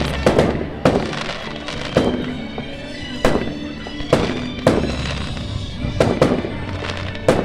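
Fireworks display: a string of about nine sharp bangs at uneven intervals of half a second to a second, each trailing off in an echoing decay.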